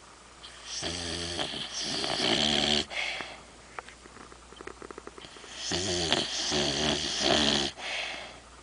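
An overweight dog snoring in its sleep: two long, loud snores about five seconds apart, each in a few pulses, with a faint quick fluttering between them.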